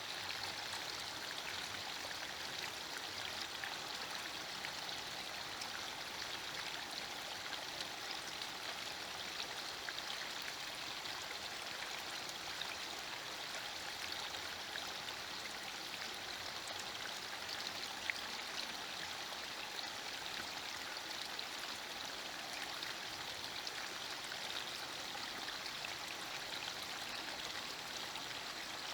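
Light drizzle falling steadily, an even hiss of fine raindrops with small ticks of drops landing on leaves, and one sharper tick about two-thirds of the way through.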